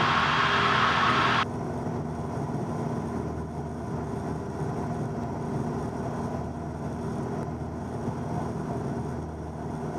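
Cessna 172N's four-cylinder Lycoming engine droning steadily in cruise, heard through the cabin audio. A hiss over it cuts off suddenly about a second and a half in, leaving a quieter, steady drone.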